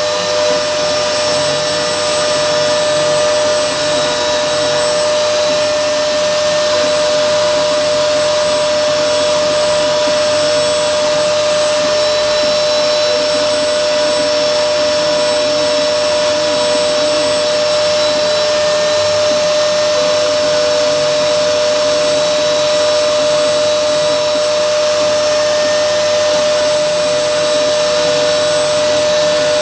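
High-speed router spindle of a CNC machine running steadily while milling, a constant high motor whine over a dense hiss.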